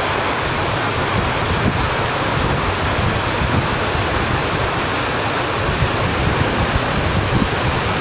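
Steady roar of whitewater in a big Colorado River rapid, with wind buffeting the microphone.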